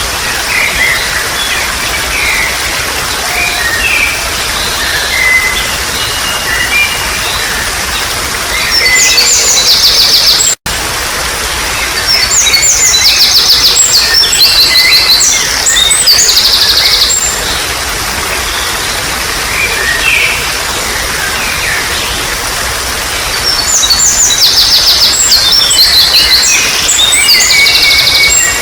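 Trickling stream water with wild birds singing over it: scattered chirps, then three spells of loud, rapid, repeated high chirping trills from about 9 s, 12 s and 24 s in. The sound cuts out for a split second about 10 seconds in.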